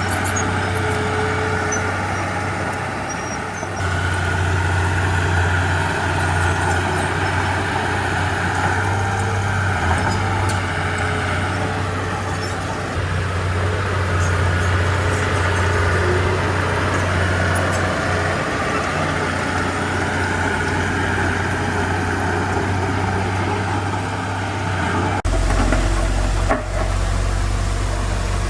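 Diesel engine of heavy earthmoving machinery running steadily under load, a low continuous drone with grinding noise above it. About 25 seconds in the sound changes suddenly to a deeper, steadier hum.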